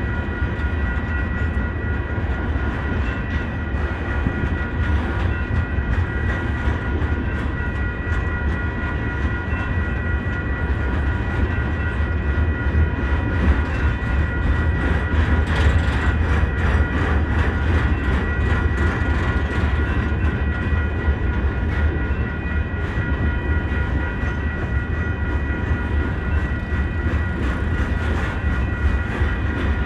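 Coal hopper cars of a Union Pacific freight train rolling steadily past: a deep continuous rumble with light clicking of wheels over the rails. Several steady high tones hold the whole time.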